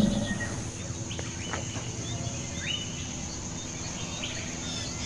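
Small birds chirping: short gliding chirps, scattered at first and then a quicker run of about two or three a second near the end, over a faint steady hiss.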